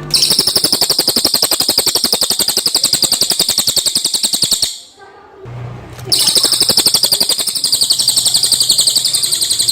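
Cililin songbird singing a loud, very fast, high-pitched trill of evenly repeated notes, about a dozen a second, in two long phrases separated by a pause of about a second and a half.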